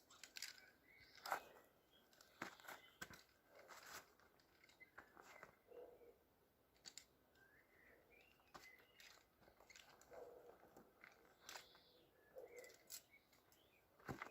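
Faint, irregular clicks and short crunching rustles, with a few faint bird chirps.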